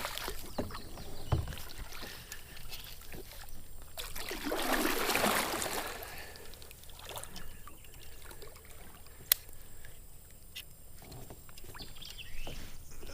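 Water splashing beside a fishing kayak as a hooked bass fights on the line, with small knocks and clicks against the boat; the biggest splash comes about four to five seconds in, and a single sharp click near the end.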